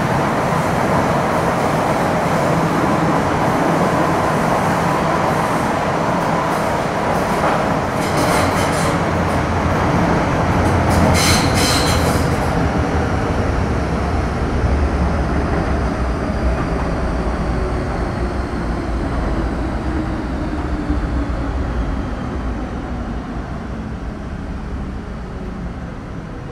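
Running noise of an MTR Metro Cammell M-Train with a GEC GTO chopper, heard from inside the car. A short high wheel squeal comes about 11 seconds in. In the second half the train slows: its motor and chopper whine falls steadily in pitch and the noise eases off.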